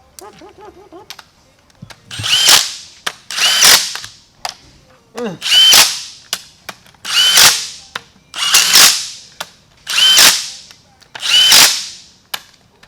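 Cordless power tool, likely an impact wrench, running 14 mm bolts in on a differential: about seven short bursts a second or so apart, each with a brief rising whine, starting about two seconds in.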